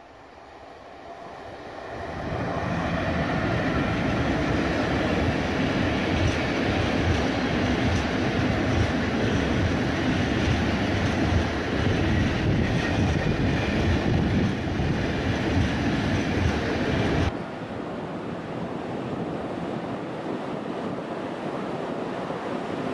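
Freight train of open-top wagons hauled by an electric locomotive rolling past close by, the wheel and wagon noise building over the first two seconds and then holding steady and loud. About 17 seconds in it cuts off abruptly to a quieter steady noise as another electric-hauled freight train approaches.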